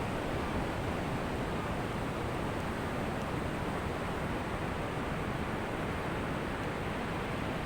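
Ocean surf making a steady, even wash of noise, with no separate wave crashes standing out.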